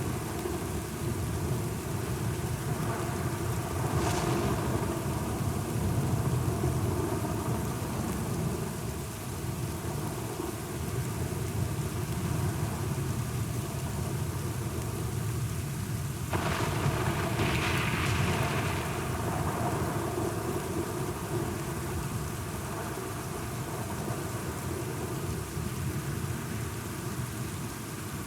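Steady rain with low rolling thunder rumbling underneath. Sharper thunderclaps break in about four seconds in and again about sixteen seconds in, the second rolling on for a few seconds.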